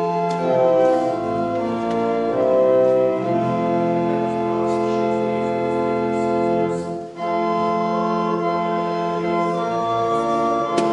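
Organ playing slow, held chords, with a brief break between phrases about seven seconds in.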